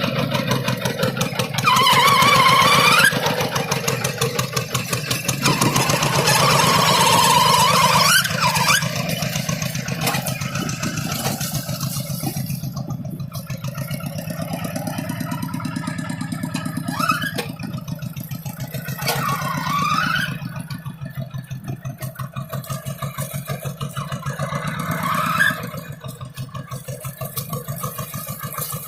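Two-wheel hand tractor's diesel engine chugging steadily while ploughing. Its pitch rises and falls several times as it speeds up and slows.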